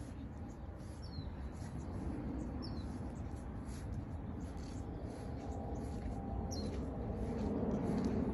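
A small bird chirping a few times, short falling chirps spaced a second or more apart, over a steady low outdoor rumble.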